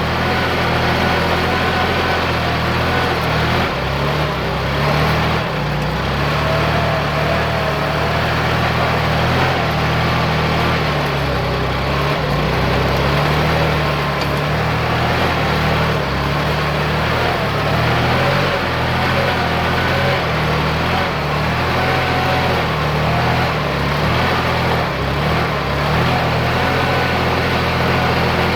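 Kubota tractor's diesel engine running steadily under load, pulling a plough through a wet rice paddy.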